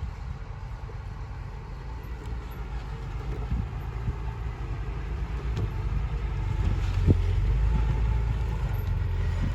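Low, steady rumble of a heavy vehicle's engine, growing gradually louder, with a few faint knocks.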